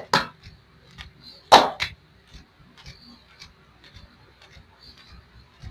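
Hands slapping on skin during a leg and foot massage. Two quick pairs of sharp slaps, one at the start and a louder pair about a second and a half in, with faint small taps and rubbing in between.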